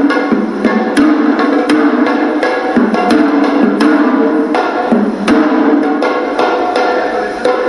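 Hewisi temple drumming: Sri Lankan drums beaten in quick, dense strokes under a held, reedy melody from a horanewa shawm that steps between notes.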